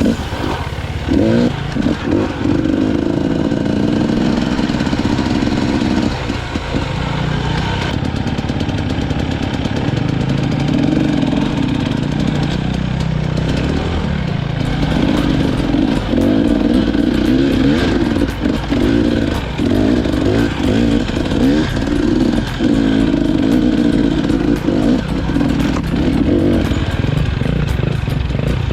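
KTM EXC 250 enduro motorcycle engine being ridden, its revs rising and falling constantly as the throttle is worked, with brief drops in engine note a few times.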